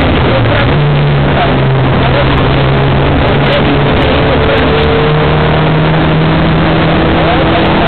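Rally car's engine running hard under load, heard loud from inside the cabin over tyre and road noise, its note stepping in pitch as the driver changes gear.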